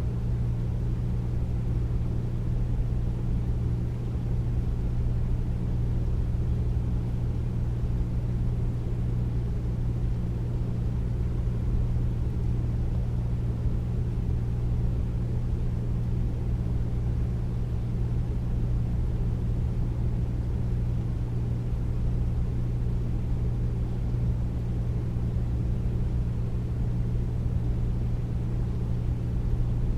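Air conditioner running: a steady deep hum with a low rumble underneath, unchanging throughout.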